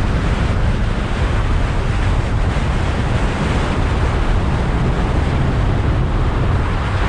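Loud, steady wind rush on the microphone of a camera on a moving vehicle, with vehicle road noise underneath.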